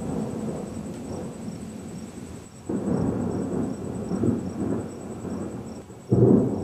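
Thunder rumbling, with a sudden louder crash about two and a half seconds in and another near the end.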